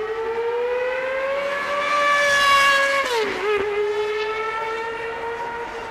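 A car engine accelerating hard past the listener, its note climbing steadily, then dropping sharply about three seconds in as it shifts up a gear, and pulling on as the sound fades away.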